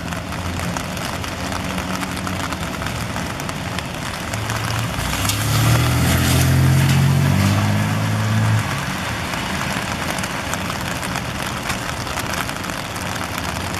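Heavy rain falling steadily on a parked car. About five seconds in, a vehicle engine's low hum joins it and stops about three and a half seconds later.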